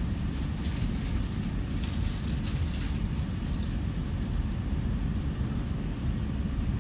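Southeastern commuter train in motion, heard from inside the carriage: a steady low rumble of wheels on the track, with a hissing, crackly noise over it for the first four seconds or so that then fades.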